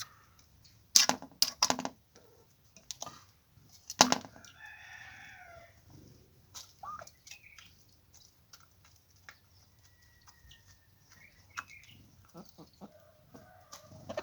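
Chickens flapping their wings in short bursts, about a second in and again near four seconds, followed by a chicken call and scattered chirps from the flock.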